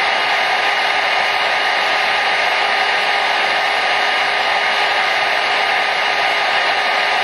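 Hair dryer running steadily: a constant airy rush with a faint steady motor hum underneath.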